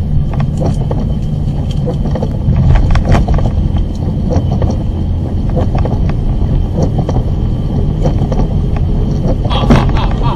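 Steady low drone of a car driving, with many short clicks and knocks over it and a louder stretch near the end.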